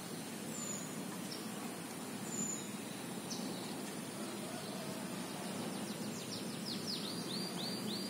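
Birds calling: a few short, high chirps, then from about six seconds in a quick run of falling whistled notes, over a steady low background noise.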